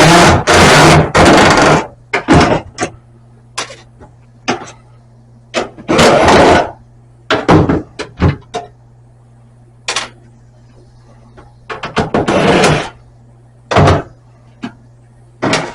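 Work noises: knocks and clicks with three short scraping rushes of noise, near the start, about six seconds in and about twelve seconds in, over a steady low hum.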